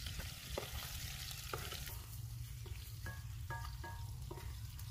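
Sliced onions and chopped ginger sizzling as they fry in oil in a large steel pot, stirred with a wooden spoon, with a few short knocks of the spoon against the pot.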